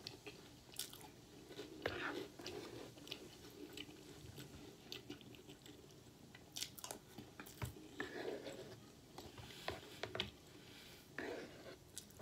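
A person chewing a mouthful of cereal in milk close to the microphone, softly and wetly, with a few sharp clicks scattered through it.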